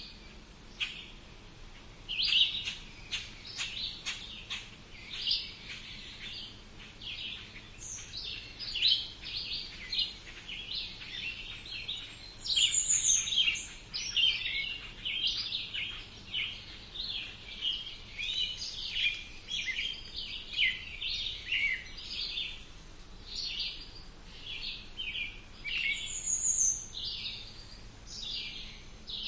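Several songbirds singing together, a busy run of rapid, short chirps and trills. A higher, thin, falling call stands out twice, about halfway through and again near the end.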